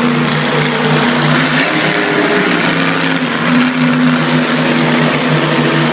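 Monster truck engine running loud, a steady drone that shifts in pitch slightly about two seconds in, over dense engine and arena noise.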